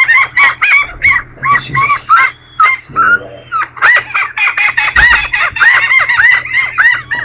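Gulls calling: a fast, loud run of repeated calls, several a second, each note arching up and down in pitch.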